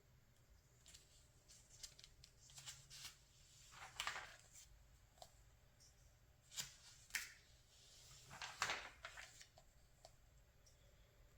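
Magazine pages being turned by hand: several short, faint papery rustles and flicks, the loudest about four seconds in and again near nine seconds.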